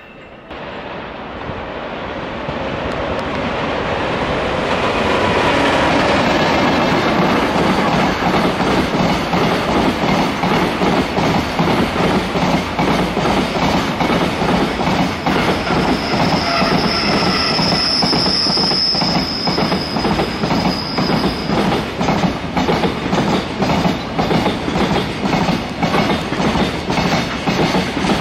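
Freight train of Koki container flatcars passing close by: the sound builds over the first few seconds as it approaches, then a long, loud run of rapid clickety-clack as the wagon wheels cross the rail joints. A high wheel squeal rings for several seconds past the middle.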